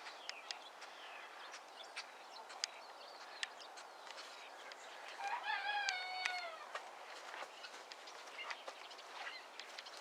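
A rooster crowing once in the distance, about five seconds in: one call with a long falling tail. Faint scattered clicks and ticks sound throughout.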